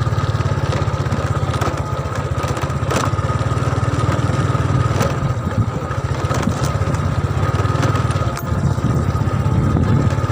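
Motorcycle engine running steadily under way, with a fast, even low pulse.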